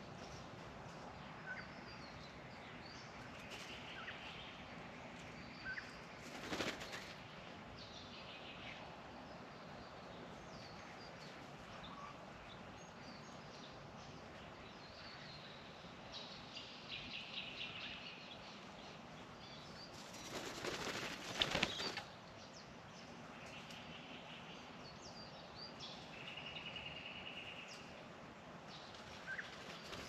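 Friarbirds flapping their wings in a noisy flurry, loudest about two-thirds of the way through, with a shorter flutter earlier. Scattered bird calls and short runs of rapid repeated notes sound between them.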